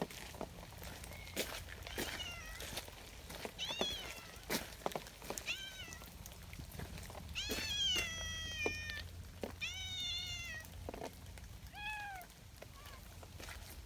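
An orange-and-white cat meowing again and again, about six meows, each rising then falling, the longest near the middle. Short sharp taps come between the calls.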